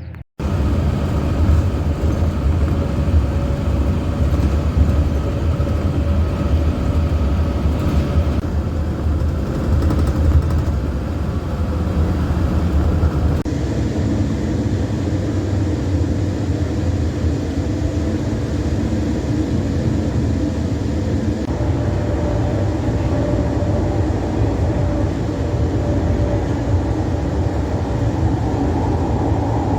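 Light-rail train running, heard from inside the car: a steady low rumble with faint whining tones, the texture shifting slightly about halfway through and again later.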